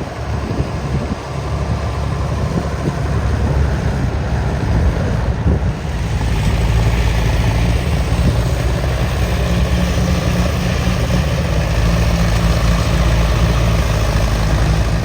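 Truck engine and road noise heard from inside the cab while driving, a steady low rumble that gets a little louder about six seconds in.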